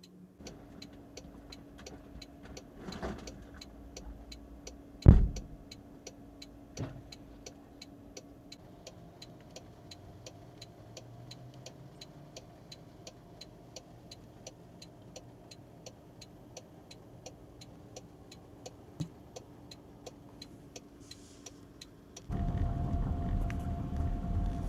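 A car's indicator ticking steadily, about three clicks a second, over a faint steady hum in the cabin. There is a single loud thump about five seconds in. Near the end a louder steady rushing noise comes in.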